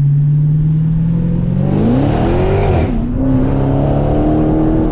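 Dodge Hellcat's muffler-deleted, supercharged 6.2-litre Hemi V8 running loud: a steady note, a quick rev up and back down about two seconds in, then a higher held note that slowly climbs.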